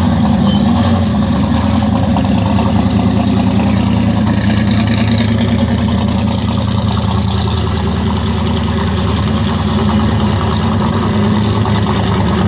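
Car engine idling loud and steady with a deep low note; the engine is one the onlooker takes to be modified rather than stock.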